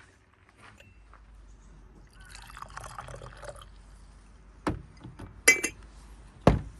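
Tea being poured into a cup for about a second and a half, then three sharp clinks of teaware, the last two the loudest.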